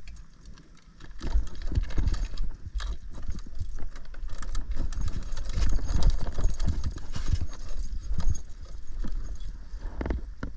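Scooter rattling and clattering over a rough forest trail, a fast run of irregular knocks, with wind rumbling on the microphone. It eases off briefly within the first second, then keeps up steadily.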